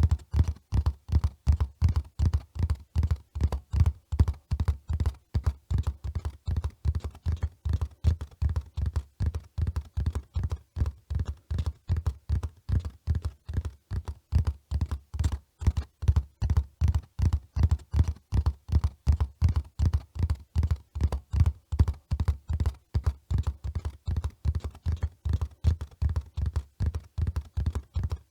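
Hooves of a running horse: a continuous, even run of dull, deep thuds repeating several times a second without a break.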